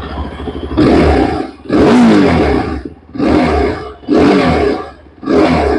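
2025 Yezdi Adventure's 334 cc single-cylinder engine idling, then revved in five quick throttle blips, each rising and dropping back to idle within about a second.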